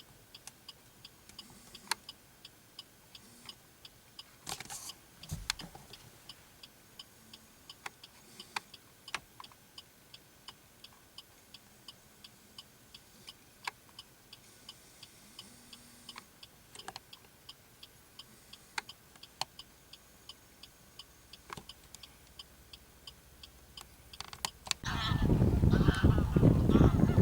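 A quiet stretch with scattered sharp clicks and a faint, even ticking. Near the end a large flock of waterbirds starts calling loudly, many overlapping honking calls at once.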